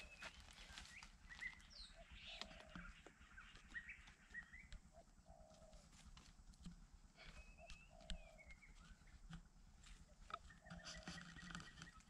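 Faint bird calls: short chirps and brief low clucking notes repeating every second or so, with light clicks of sticks being handled.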